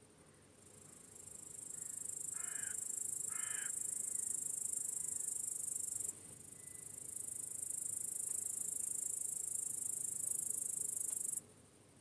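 Crickets trilling in a high-pitched continuous chorus that swells in, stops abruptly partway through, swells again and cuts off suddenly near the end. Two short bird calls about a second apart sound early on.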